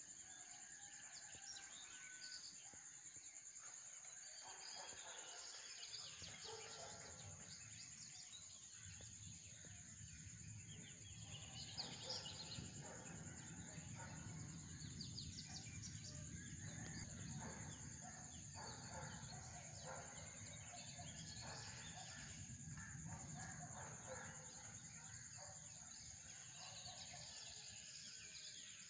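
Many birds chirping and calling in short notes, over a faint, steady low hiss of rain that grows a little about six seconds in, with a steady high tone running underneath.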